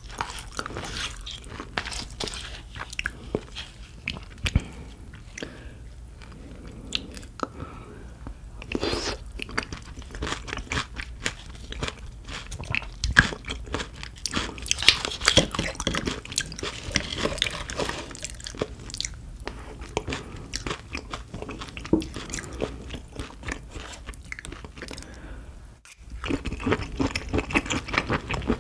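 Close-miked eating sounds: a person biting and chewing crunchy food, with many crisp crunches. There is a brief break near the end.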